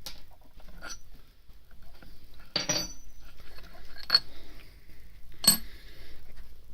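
Steel clamp parts and hand tools clinking as a workpiece is unclamped from a milling machine. There are a few sharp metallic clinks with a brief ring, spaced a second or more apart.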